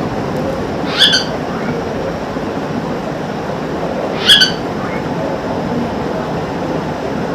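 Parrot giving two short, shrill calls, about a second in and again about three seconds later, over a steady background rumble.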